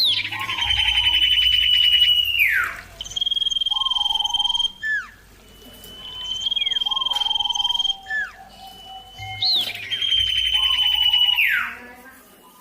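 Common iora singing: four long, steady, high whistled notes, several ending in a quick downward slur, with short slurred notes between.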